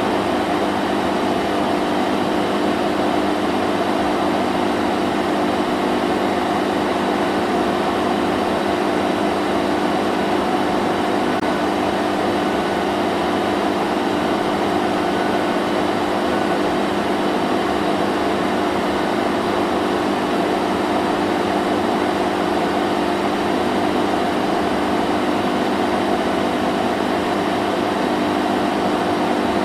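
Vacuum cleaner motor running continuously, a steady hum under an even rushing hiss with no change in pitch or level.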